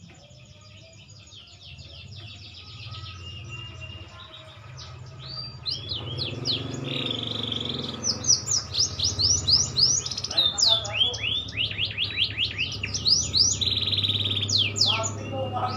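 Green canary singing: fast runs of quick repeated sweeping chirps, soft at first and much louder from about five seconds in, broken by buzzy rolling trills. A steady low hum sits underneath.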